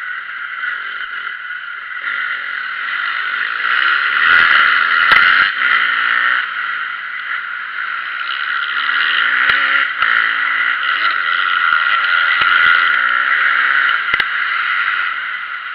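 Motocross dirt bike engines revving up and down as they are ridden round the track, the pitch rising and falling repeatedly, with a few sharp clicks and knocks.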